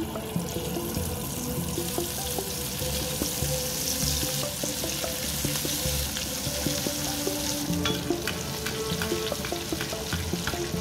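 Baby potatoes deep-frying in hot oil in a kadai: a steady sizzle that starts suddenly as the potatoes go into the oil and keeps on as the oil bubbles hard around them. Background music underneath.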